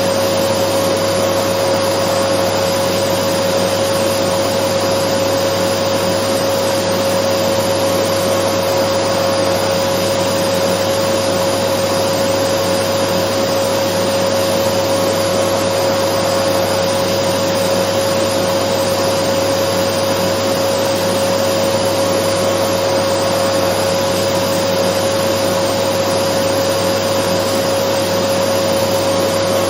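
Dyson vacuum cleaner running steadily: a constant rush of air with an unchanging whine on top.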